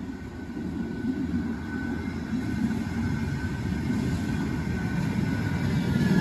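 Manchester Metrolink tram approaching: a low rumble that grows steadily louder, with a faint high whine above it.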